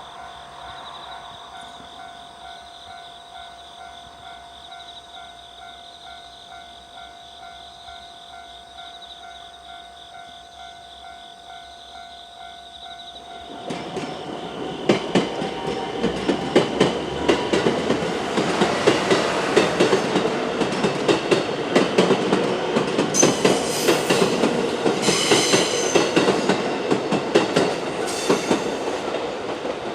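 A level-crossing warning bell rings steadily. About 14 s in, a JR West 223 series six-car electric train passes the crossing, and the wheels on the rails grow loud, with a quick run of clacks over the rail joints.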